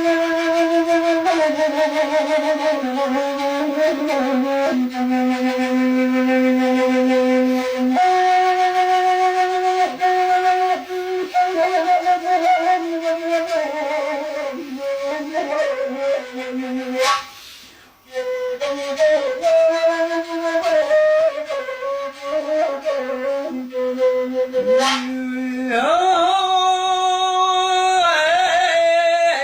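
A solo flute playing a Bedouin-style melody of long held notes joined by quick ornamented turns. It breaks off briefly a little past the halfway point, then carries on, brighter toward the end.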